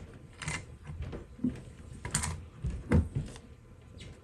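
A few irregular clicks and light knocks of plumbing fittings and parts being handled, the loudest a dull knock about three seconds in.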